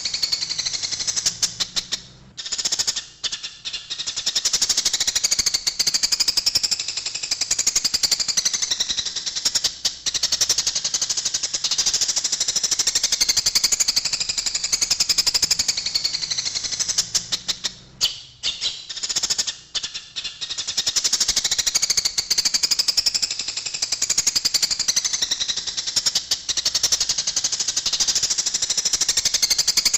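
Eurasian tree sparrows chattering in a fast, dense run of harsh chirps, the agitated calls of sparrows fighting. The chatter thins out and breaks briefly twice, a few seconds in and again about two-thirds of the way through.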